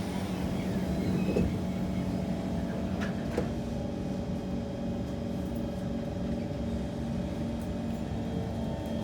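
Steady low rumble and hum inside a Kawasaki C151 MRT train car, with a steady mid-pitched tone settling in about three and a half seconds in. There is a short click just before it.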